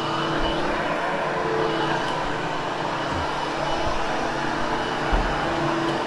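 Hoover HushTone upright vacuum cleaner running steadily as it is pushed over carpet: an even rush of air with a low hum.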